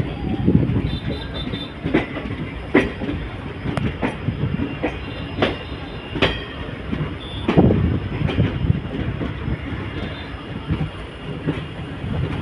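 Passenger train moving on the rails: a steady low running noise broken by sharp metallic clanks at irregular intervals, about one every second or so.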